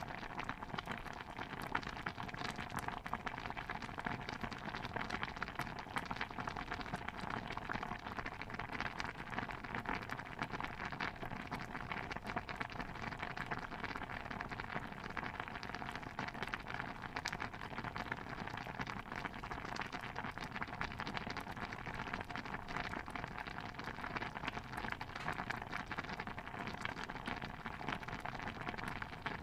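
Kitchen ambience soundscape: a steady, even bed of dense little pops and patter that holds unchanged throughout, with no single knock, chop or creak standing out.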